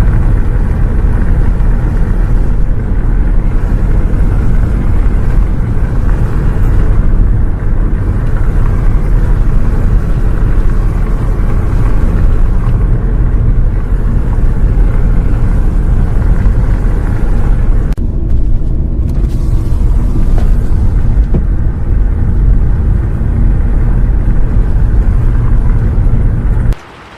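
Bus travelling, a loud steady low rumble of engine and road noise heard from inside, cutting off suddenly near the end.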